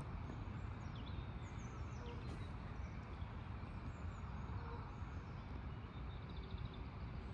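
Outdoor ambience: a low steady rumble with small birds chirping now and then, and a short rapid trill near the end.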